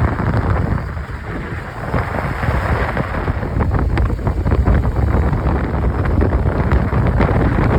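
Wind buffeting the microphone on a moving motorcycle, with the bike's engine running underneath.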